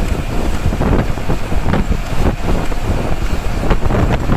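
Tata bus running on the road, engine and road noise, with wind gusting unevenly across the microphone.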